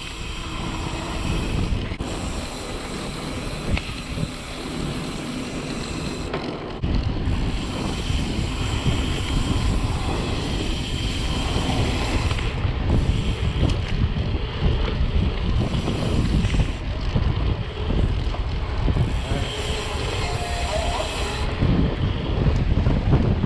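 Wind buffeting the microphone of a helmet or handlebar camera on a moving mountain bike, a rough, gusty rush. It gets heavier and deeper about seven seconds in.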